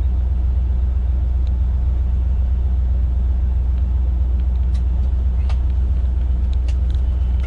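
Steady low rumble of a combine's engine and machinery heard from inside the cab, an even drone with a few faint clicks in the second half.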